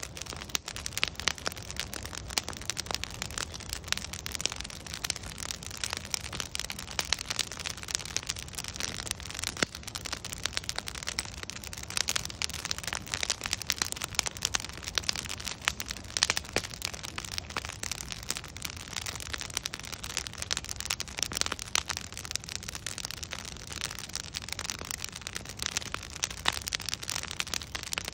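Wood bonfire crackling steadily: many irregular sharp pops and snaps from burning logs, some louder than the rest, over a soft constant hiss.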